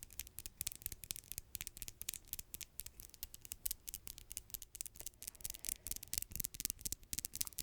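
Long freshly manicured fingernails tapping and clicking close to the microphone in rapid, irregular clicks, several a second.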